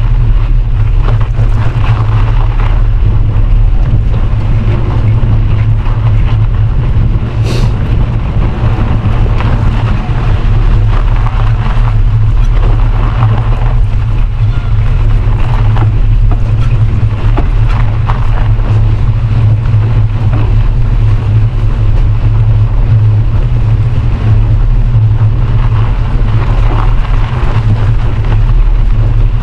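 Loud, steady wind rumble on the microphone of a camera carried on a moving bicycle, mixed with the hiss of the ride, and one short sharp tick about seven seconds in.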